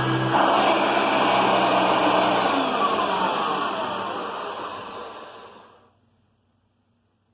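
Hoover Concept One upright vacuum cleaner running, then switched off: its low hum cuts out just after the start and the motor winds down with a falling whine, fading to silence about six seconds in.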